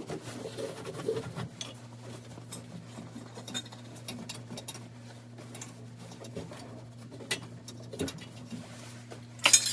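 Small metal parts and tools being handled, with light scraping and scattered clicks over a steady low hum. A louder clatter comes near the end.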